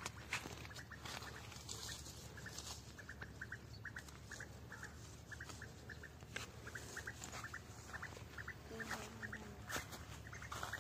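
Short bird calls repeating in quick pairs and small groups, a few a second, with scattered rustles and clicks as leafy branches are brushed and handled.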